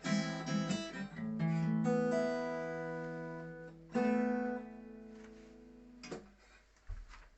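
Acoustic guitar playing the closing chords of a song. A few strums come first, then a final chord is struck about four seconds in and left to ring out and fade, followed by a soft thump near the end.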